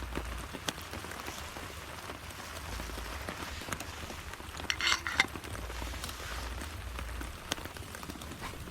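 Steady rain with scattered drips tapping, and a short metallic clatter of cookware about five seconds in.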